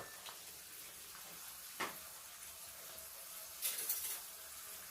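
Marinated chicken sizzling faintly as it cooks in a pan, with a single light click about two seconds in and a short clatter of small knocks near four seconds.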